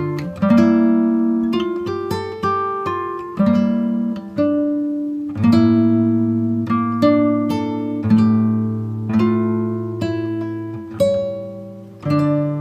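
Background music: an acoustic guitar playing plucked notes and chords, each ringing out and fading before the next, about one a second.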